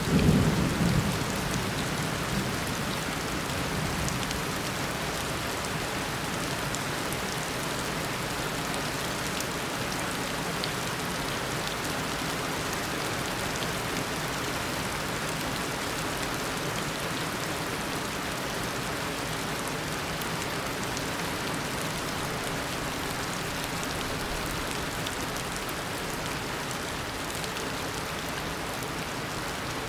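Steady heavy downpour of a tropical rainstorm, an even hiss of rain drumming on surfaces. A low thunder rumble dies away in the first two seconds.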